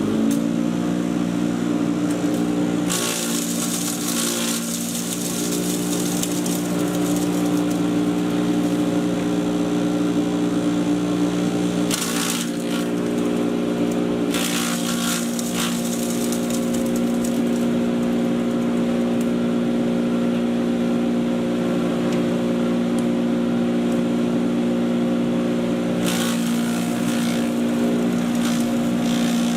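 Patriot 1.5-HP electric chipper shredder running at full speed with a steady electric-motor hum. Four times, it gives a rough crackling as material is fed through and shredded, the longest for several seconds a few seconds in.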